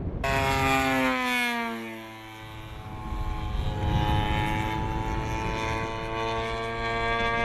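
RC model aircraft engine running as the plane flies: its pitch drops over the first two seconds, then holds steady.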